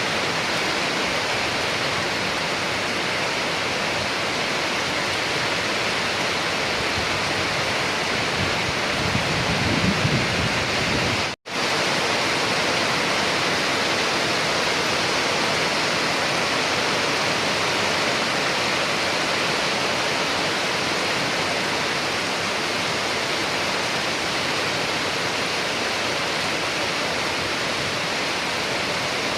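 Steady rain, an even hiss with no letup. A low rumble swells briefly about nine seconds in, and the sound cuts out for a split second at about eleven seconds, as at a loop splice in the recording.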